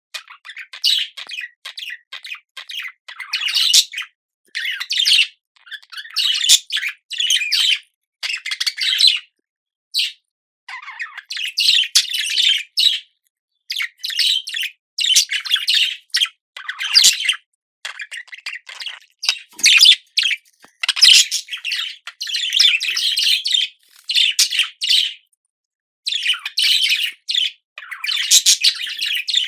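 Pet budgerigar chattering and warbling in short bursts of high, fast chirps, broken every second or two by brief silent gaps.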